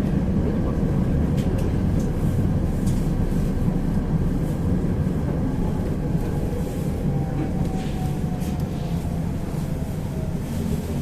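Tram running on its rails: a steady low rumble with occasional short clicks from the track. A faint whine falls in pitch over the second half.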